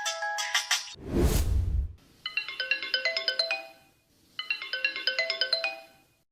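Electronic mobile-phone ringtone: a fast melody of clear beeping tones, played twice with a short pause between. About a second in, a loud whoosh with a deep boom sweeps through, just after another tune of stepped tones ends.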